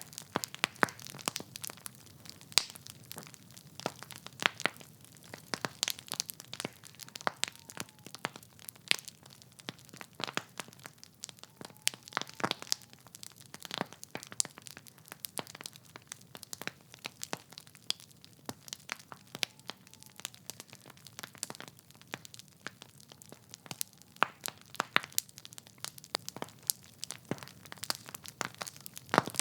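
Wood fire burning in a fireplace: logs crackling with irregular sharp pops and snaps, several every second, over a low steady rush of the flames.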